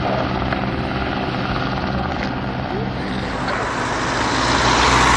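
Propeller engine of a light aircraft droning steadily. It grows louder over the last couple of seconds as the aircraft comes closer on its approach.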